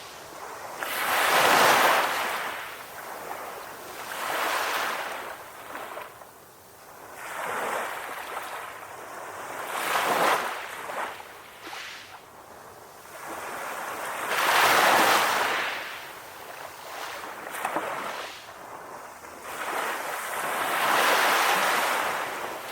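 Ocean waves breaking and washing up the shore, coming in surges every few seconds that swell and fade, with the biggest ones about a second and a half in, around the middle and near the end.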